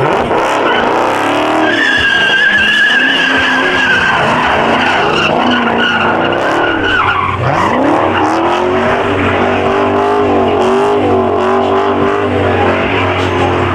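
Muscle car doing a burnout: the tyres squeal steadily at high engine revs. About seven seconds in the squeal drops away, and the engine revs climb again and hold high with tyre noise underneath.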